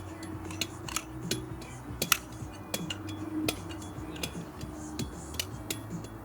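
Irregular sharp metallic clicks and clinks, several a second, over faint background music.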